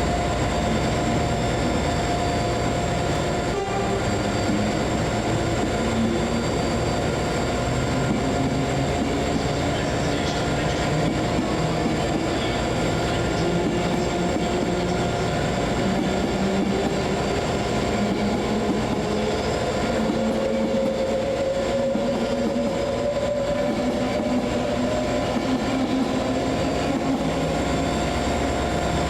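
A train running at the platform: a steady mechanical rumble with a whine that climbs slowly in pitch over the second half, as the train picks up speed.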